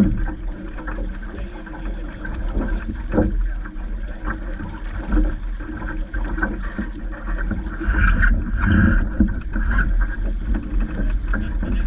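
Water splashing and slapping against the hull of a small Vaucluse Junior sailing dinghy, with irregular knocks and a steady wind rumble on the microphone.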